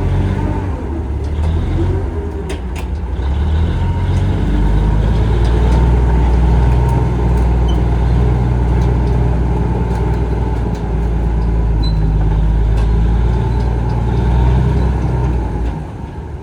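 Komatsu bulldozer's diesel engine running steadily, picking up a little about four seconds in, with a few sharp metallic clicks a couple of seconds in.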